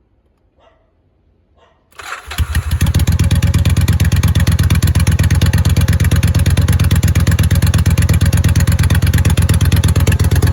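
A cold 1999 Yamaha Virago XV1100S V-twin is quiet at first, catches about two seconds in, and then runs steadily with a fast, even beat on choke.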